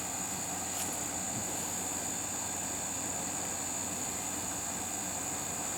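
Steady background noise with a constant high-pitched whine and no distinct event.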